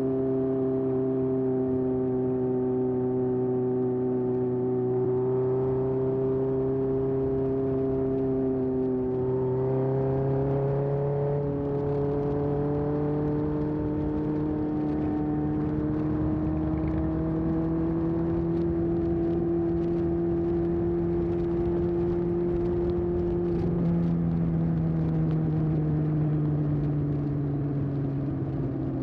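Air-cooled inline-four engine of a 1981 Honda CB750F, running through a vintage Yoshimura muffler, heard while cruising. The exhaust note holds steady, dips about a third of the way in, climbs slowly, and drops again near the end.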